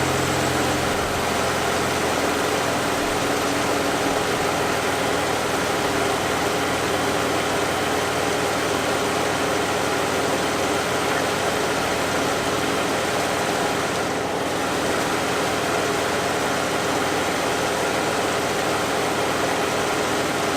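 Dodge Charger idling with a steady running noise.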